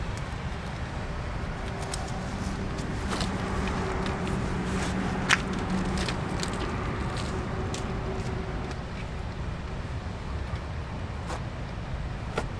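Steady rain noise with scattered sharp ticks and taps, the loudest about five seconds in. A low steady hum sounds under it for a few seconds in the first half.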